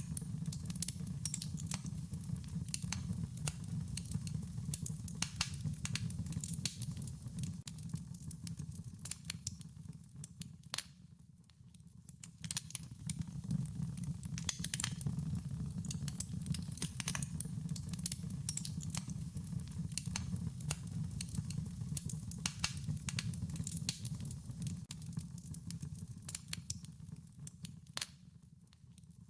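Wood fire crackling, with frequent sharp pops and snaps over a low steady rumble of flames. It quietens briefly twice, about eleven seconds in and again near the end.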